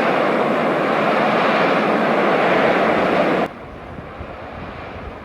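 Loud steady rushing of storm wind. About three and a half seconds in it cuts off abruptly, leaving a quieter low rumble with wind buffeting the microphone.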